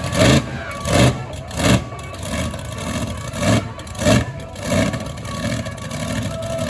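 Monster truck engine revving hard in short repeated surges, about six of them, over a steady engine running underneath.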